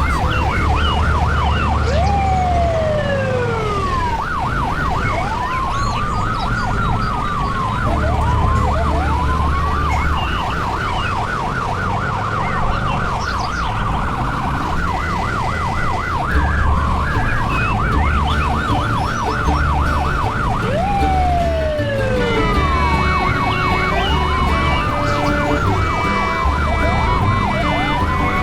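A fast warbling siren that rapidly swings up and down in pitch, with whistle-like falling and rising glides over a low bass beat. The siren breaks off for about two seconds about 21 s in, then resumes.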